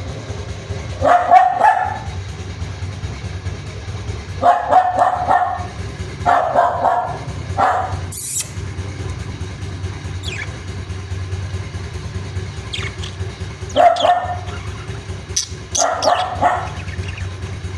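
A dog barking in six short bouts, with faint high chirps of budgies between them over a steady low hum.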